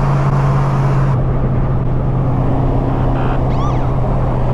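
Straight-piped 5th-gen Camaro SS 6.2-litre V8 exhaust droning steadily at cruise, loud from inside the car.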